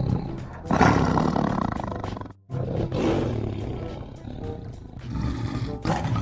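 Tiger roaring: a run of loud, rough roars, broken by a short gap about two and a half seconds in and starting again near the end.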